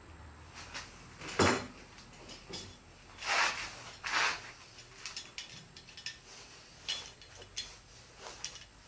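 Wooden boards and tools being handled on a work table: a sharp knock about a second and a half in, two scraping slides a couple of seconds later, then small clicks and taps.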